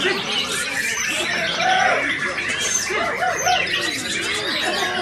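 Many caged songbirds singing at once at a bird-singing contest, a dense, unbroken chorus of overlapping chirps and whistles.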